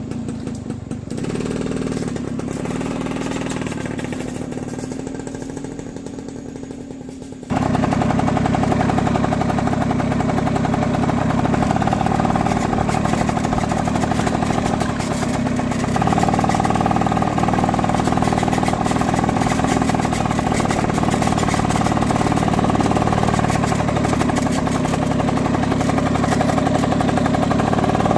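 A small engine running steadily at a fairly even speed. It changes abruptly to a louder, brighter drone about seven seconds in, and its pitch steps up again about halfway through.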